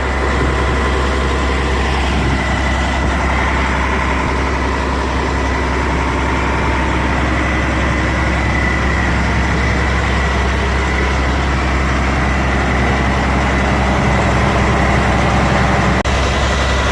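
Diesel truck engine running steadily at raised revs, held there to check whether fuel still leaks onto the exhaust. A hiss sounds over the engine, one the driver does not like.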